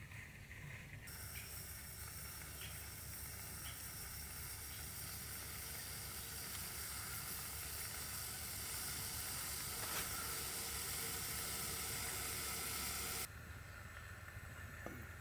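Steady hiss that starts suddenly about a second in, grows slightly louder, and cuts off sharply near the end.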